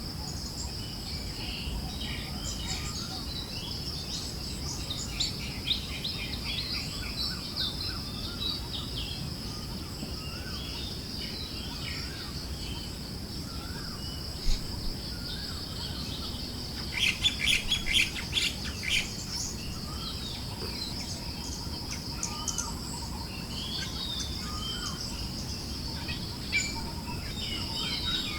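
Forest birds chirping and calling on and off, with a dense flurry of rapid chirps about two-thirds of the way through, over a steady high insect drone and a low, even rush of wind.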